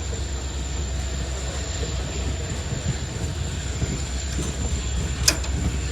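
Train noise: a steady low rumble, with a single sharp click about five seconds in.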